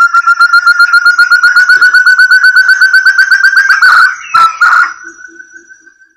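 Recorded call of a forest partridge (burung terung, puyuh hutan): a rapid run of short whistled notes that creeps slowly up in pitch, breaks into a couple of louder notes about four seconds in, then trails off.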